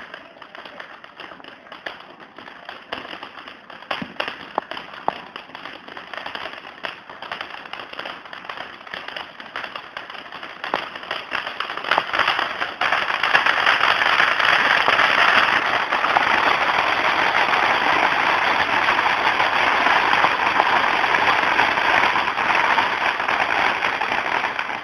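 Firework ground fountain (a 'volcán') spraying sparks with a dense, steady hiss and crackle, loud from about halfway in and cutting off just before the end. Before it builds there are scattered sharp pops and crackles.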